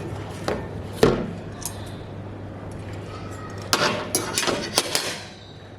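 Kitchenware clinking and knocking: a few separate sharp knocks, the loudest about a second in, then a quick run of clinks over a steady low hum.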